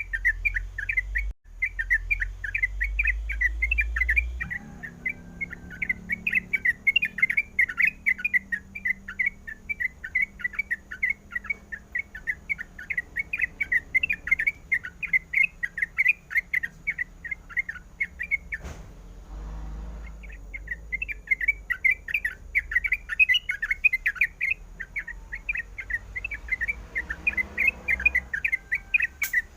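Sooty-headed bulbul (trucukan) singing a fast, continuous string of chattering notes, with one short break about two-thirds of the way through.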